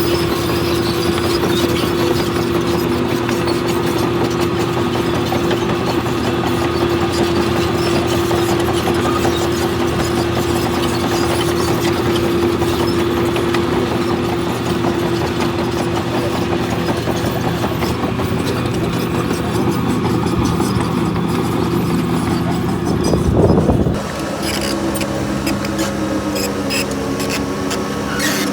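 Heavy construction machinery running steadily under load, with a diesel engine drone and dense mechanical clatter. It swells briefly about 23 seconds in, then drops and settles at a different engine pitch.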